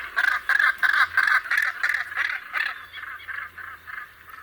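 Northern gannet calling: a run of harsh, repeated calls, about three a second, fading toward the end.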